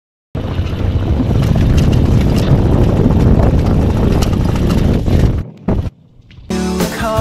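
Motorbike ride: a loud rush of wind on the microphone mixed with vehicle running noise. It stops about five seconds in, and music starts near the end.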